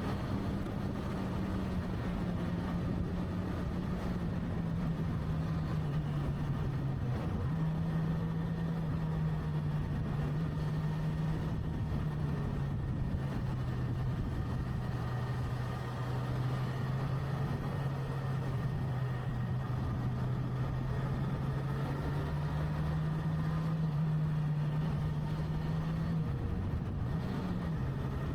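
Motorcycle engine running under way, with wind and road noise. The engine note drifts down and back up with speed and changes pitch abruptly a few times, near the start and again near the end.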